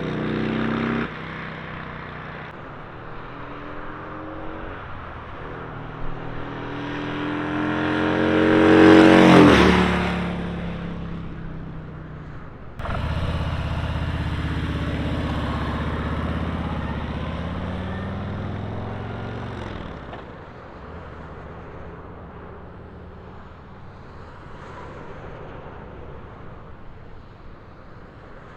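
2023 Harley-Davidson Road Glide's V-twin engine as the motorcycle passes by close, its pitch rising to the loudest point about nine seconds in and then dropping away. A second run starts abruptly near thirteen seconds and fades out as the bike pulls away.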